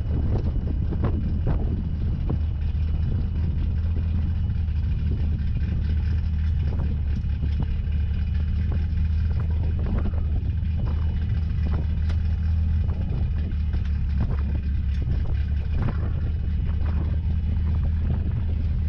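Car engine running at a steady speed, a constant low drone with no revving, with scattered light clicks and rattles.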